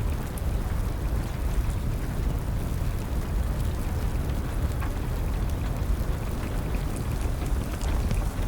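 Steady rain over a deep low rumble, with scattered small pops and crackles of a burning wood fire.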